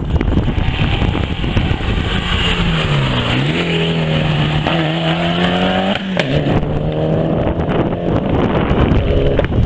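Rally car engine under load on a stage. Its note dips about three seconds in, then climbs and holds, breaks briefly about six seconds in, and climbs again near the end. Wind buffets the microphone throughout.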